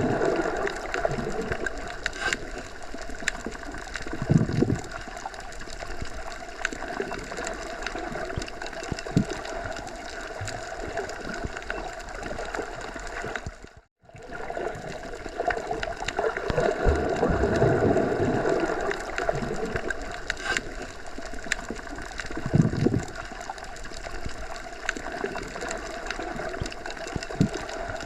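Wind blowing through forest trees: a steady rushing that swells and eases in gusts, with the sound cutting out for a moment about halfway through.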